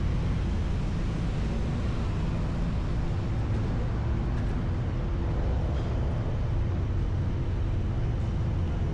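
A steady low engine rumble with a faint hum in it, over outdoor city ambience.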